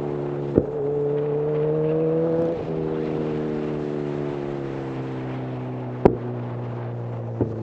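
Honda CB1000R inline-four with a full-system Black Widow exhaust, heard from the rider's seat. The engine pulls with a rising note for about two seconds, the pitch drops, and the engine then slowly winds down as the bike slows. A few short sharp pops cut through, the loudest about six seconds in.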